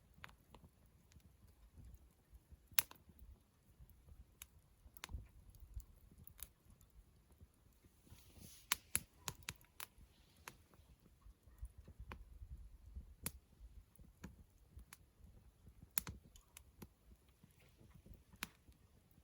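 Wood campfire crackling: sparse, irregular sharp pops and snaps over a faint low rumble.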